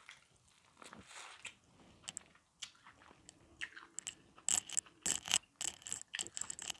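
Close-miked chewing of a bite of boiled corn on the cob. Faint scattered clicks at first grow into a dense run of crisp clicks and smacks in the last two seconds.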